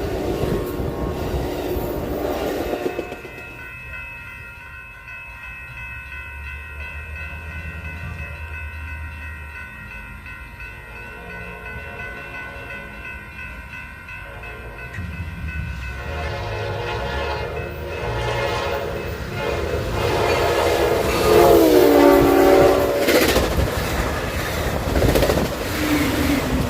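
A train running past, with horn blasts: one at the start and a louder one about three-quarters of the way through that falls in pitch, plus a short blast near the end. Between them there is a steady deep rumble and steady high tones.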